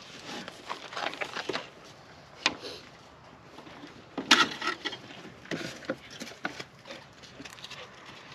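Faint, irregular clicks and light knocks of hands handling things at the engine bay, with two sharper clicks about two and a half and four seconds in.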